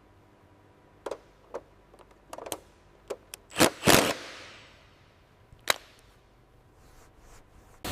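Metal parts and tools knocking and clinking: a handful of scattered sharp knocks, then a loud double clank about three and a half seconds in that rings on briefly, and one more knock near the end.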